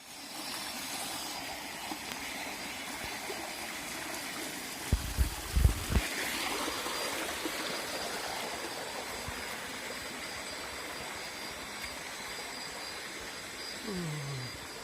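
River water flowing steadily, with a cluster of low thumps about five to six seconds in.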